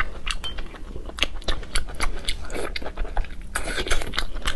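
A person chewing a mouthful of food close to a clip-on microphone, with many short smacking clicks from the mouth.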